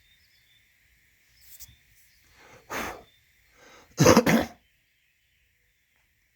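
A person sneezing: a couple of sharp breaths, then a loud sneeze about four seconds in.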